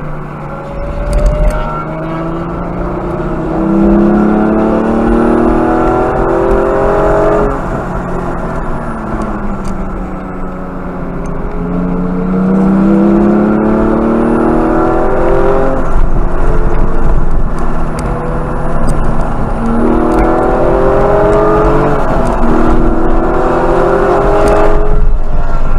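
Porsche GT4's flat-six engine heard from inside the cabin, climbing in pitch under hard acceleration, easing off and falling in pitch for a few seconds midway, then pulling up through the revs again with quick drops at gear changes. Steady tyre and road noise runs underneath.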